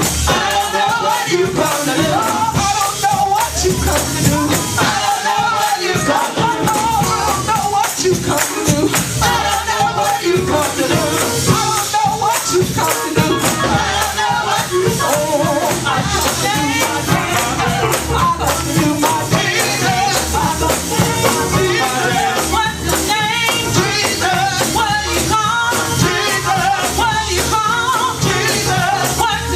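Live, upbeat gospel praise music: a congregation singing and shouting over instruments, with a steady beat of shaken percussion such as a tambourine.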